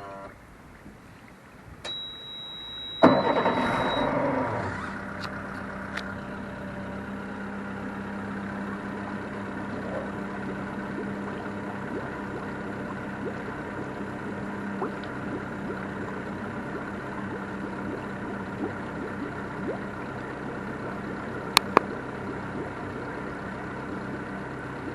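Tohatsu 19-foot boat's engine being started. A high steady warning beep sounds first, then the engine cranks and catches about three seconds in, runs up briefly and settles into a steady idle. Two sharp clicks come near the end.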